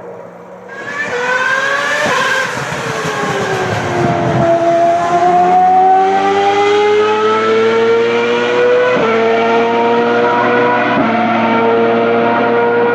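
Ferrari racing car engine at high revs. The engine note first rises, then drops as the car slows. It then climbs steadily under hard acceleration, with two upshifts in the later part.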